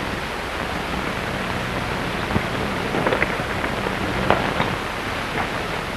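Steady hiss with faint scattered crackles and a low hum from an old 1930s optical film soundtrack.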